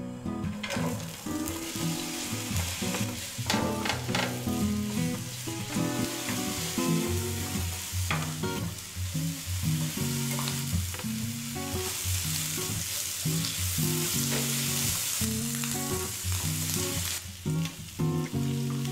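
Butter, sliced onion and bacon sizzling as they fry in a nonstick frying pan, with stirring and a few sharp knocks of food or a utensil against the pan. The sizzle swells for several seconds in the second half.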